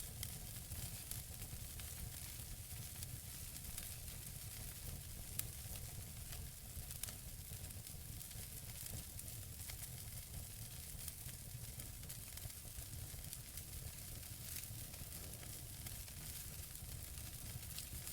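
Wood fire burning in a fireplace: a faint steady hiss with scattered small crackles and pops from the burning logs, one sharper pop about five seconds in.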